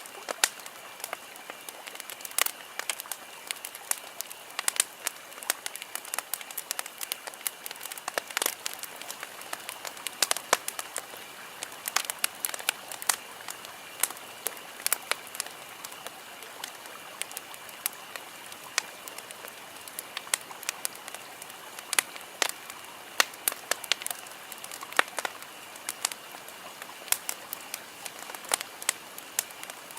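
Wood campfire crackling: irregular sharp pops and snaps, several a second at times, over a steady hiss of burning wood, with a faint steady high tone underneath.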